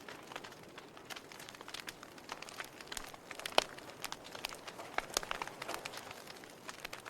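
Wood fire crackling: a soft steady hiss with frequent irregular snaps and pops, one sharp pop louder than the rest about three and a half seconds in.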